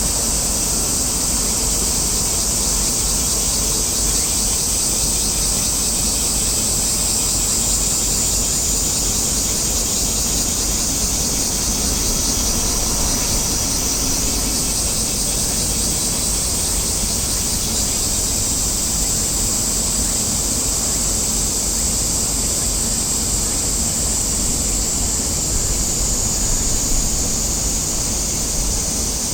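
A steady, shrill high-pitched drone that wavers slightly in pitch, over a low rumbling noise.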